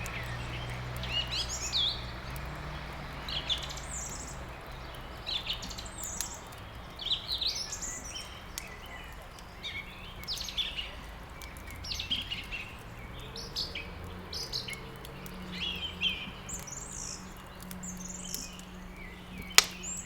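Small songbirds chirping and trilling in many short phrases, over scattered soft crackles of a wood fire with one sharp pop near the end. A low steady hum runs underneath.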